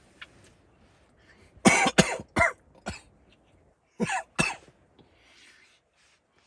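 A person coughing: a run of about four coughs, then two more after a short pause.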